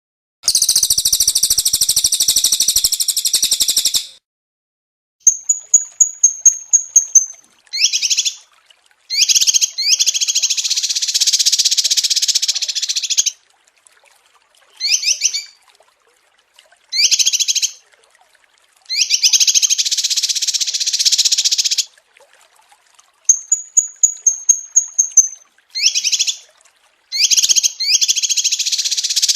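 Recorded songs of small songbirds played as an edited track. Long, dense, high-pitched trills of a few seconds each alternate with quick runs of short sharp chirps and a thin high twitter, with dead-silent gaps between the clips.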